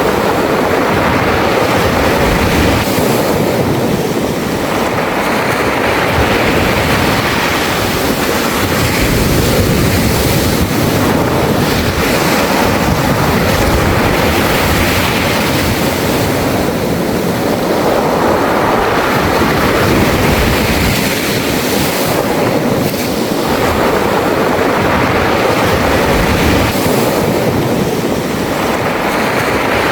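Sea waves surging and washing over a beach of round pebbles, the pebbles rattling in the wash, in slow repeated swells.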